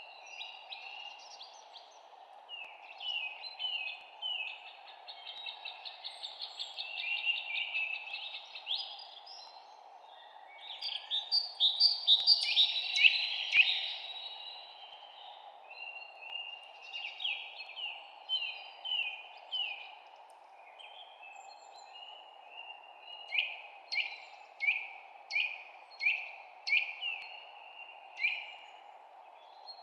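Songbirds chirping and singing over a steady low background hiss. The singing builds to a dense, loud burst about halfway through, and near the end one bird repeats a short falling note about eight times.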